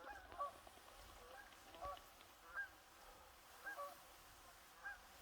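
Geese honking in the distance: about five short calls spread roughly a second apart over a faint steady hiss.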